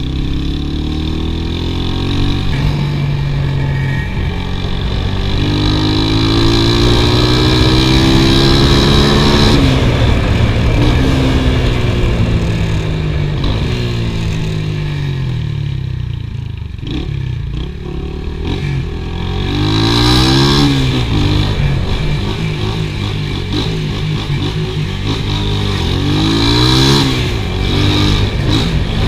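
Small motorcycle engine running under way. Its pitch climbs as it accelerates and drops back at gear changes or on closing the throttle, several times over.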